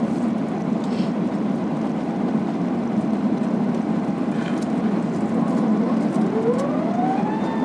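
Steady rushing cabin noise of an Airbus A380-800 in flight on approach, heard from inside the cabin. About five and a half seconds in, a whine rises in pitch and then holds steady: the flap drive moving the wing flaps to slow the aircraft.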